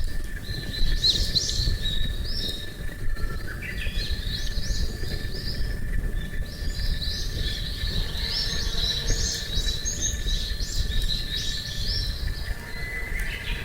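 Wild songbirds singing in runs of quick, high chirping notes, over a constant low rumbling background.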